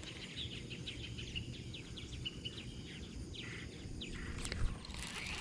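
Small birds chirping and calling over and over in quick short notes, many of them dropping in pitch, over a steady low rumble of background noise. A single sharp click sounds near the end.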